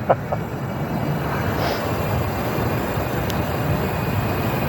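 Wind buffeting a phone microphone during a bike ride: a steady low rushing noise.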